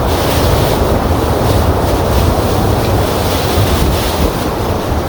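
Hurricane-force squall wind blasting over the microphone, with a heavy low rumble, mixed with rough, churning harbor water around a moored sailboat. A loud, steady rush.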